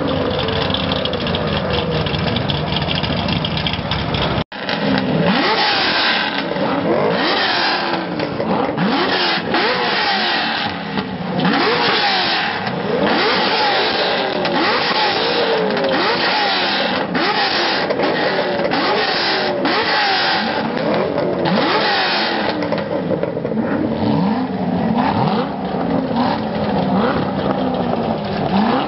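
Several Chevrolet Corvette V8 engines revving hard over and over, their pitches climbing and falling and overlapping one another. There is a momentary break about four and a half seconds in.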